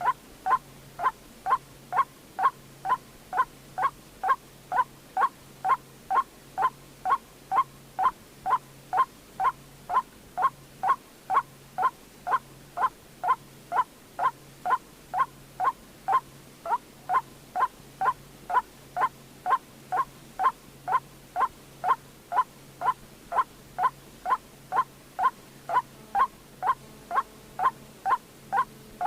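White-breasted waterhen (chim quốc) call repeating at a steady, even pace of about two short, sharp notes a second, without a break. It is a call recording of the kind played as a lure for trapping the bird.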